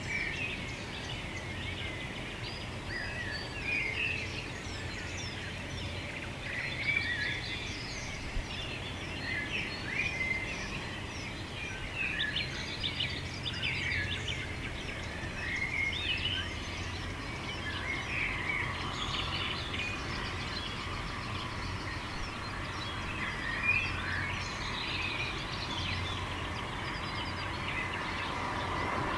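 Many small birds chirping and calling at once, short overlapping notes throughout, over a steady low rumble; about two-thirds of the way in a steady mid-pitched hiss grows beneath them.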